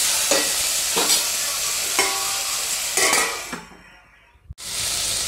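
Vegetables sizzling as they fry in oil in an aluminium pot, with a metal ladle scraping and stirring them about once a second. About three and a half seconds in the sizzle fades away. After a sharp click it comes back steady.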